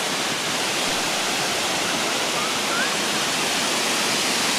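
A waterfall pouring steadily: an even, unbroken rush of falling water.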